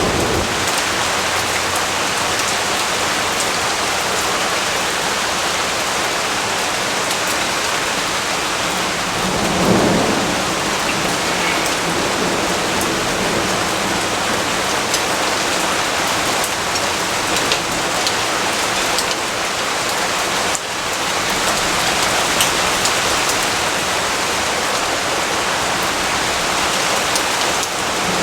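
Steady heavy rainfall hissing, with a low rumble of distant thunder swelling and fading about ten seconds in.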